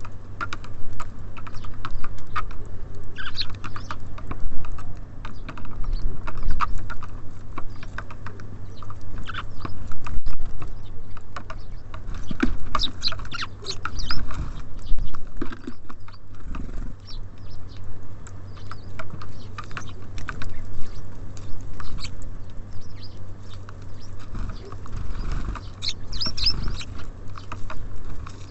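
Small birds such as tits and sparrows at a bird feeder: rapid, irregular pecking and tapping as they take seed, with short high chirps now and then, over a steady low hum.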